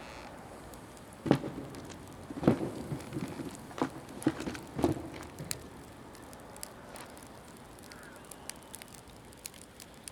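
A wood fire of damp, near-green firewood, with about five loud knocks and clunks in the first half, then scattered small crackling pops.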